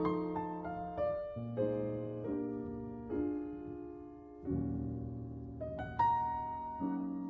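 Slow, gentle solo piano music: sustained chords and single notes struck a second or so apart, each ringing and fading.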